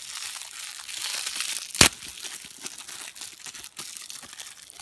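Crinkly plastic packaging being handled and pulled open to unwrap a small squishy toy, with one loud sharp crack about two seconds in.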